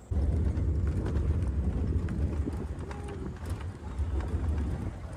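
A steady low rumble with a scatter of irregular knocks.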